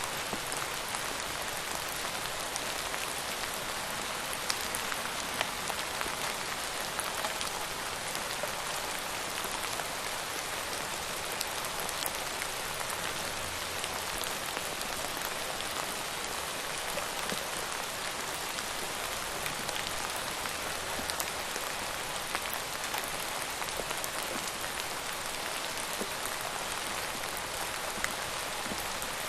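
Steady rain falling on a surface, a dense even hiss with many small individual drops ticking through it.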